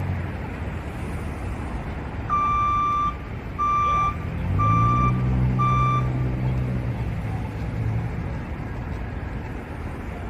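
A vehicle's reversing alarm beeping four times, about once a second, while a heavy engine's note rises and then holds steady, over steady street noise.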